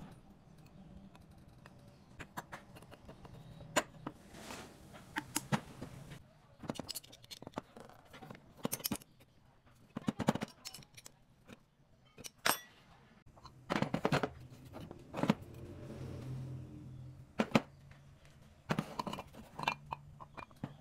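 Irregular sharp metallic clinks and knocks of tools and engine parts being handled, with a faint low hum at times.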